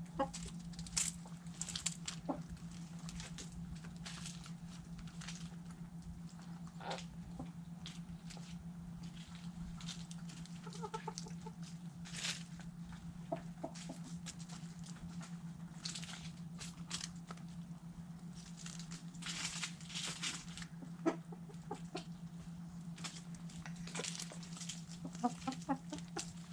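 Backyard hens clucking now and then while pecking at food scraps, with many short sharp taps and scratches of beaks on the food. A steady low hum runs underneath.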